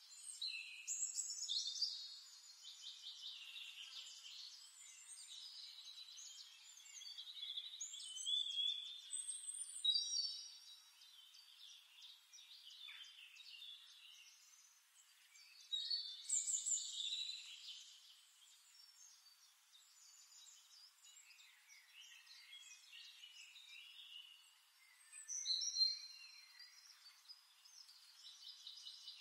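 A small songbird singing: high chirps and rapid trills in loud phrases, with quieter twittering in between.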